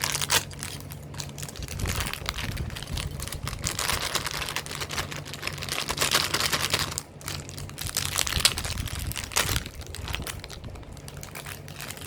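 Plastic packaging crinkling and rustling as it is handled, with many small clicks. The rustling swells and fades a few times.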